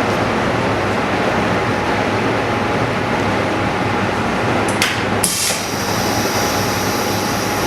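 OCA vacuum laminator running its automatic cycle: a steady mechanical hum from the pump, then about five seconds in a couple of sharp clicks and a hiss of air that stops near the end, as the chamber vents at the end of the lamination cycle.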